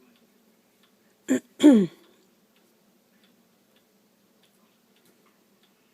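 A woman clearing her throat: two quick bursts about a second and a half in, the second falling in pitch. Faint small ticks before and after.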